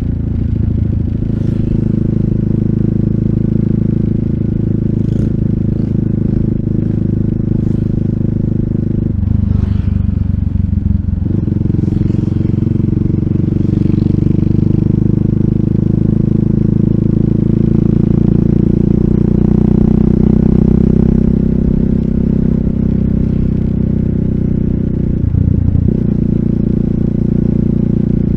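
RUSI Classic 250Fi motorcycle running under way, its exhaust note coming through an Eli's Muffler full system with a bullet slip-on and dB killer. The note is steady and loud, with a brief break in it about nine seconds in and again near the end, as when shifting gear.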